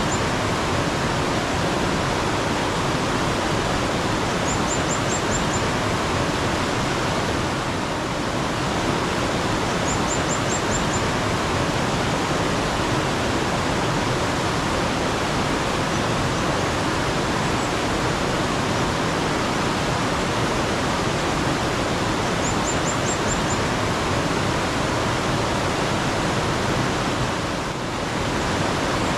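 Mountain stream water rushing steadily. Over it, a bird gives a short quick run of about five high chirps four times.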